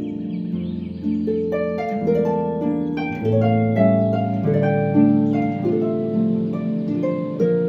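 Background music: a solo harp plucking a gentle melody over low sustained bass notes.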